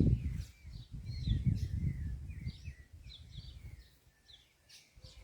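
Small birds chirping in quick, curved notes, with a low rumble beneath for the first three seconds or so. Both fade away near the end.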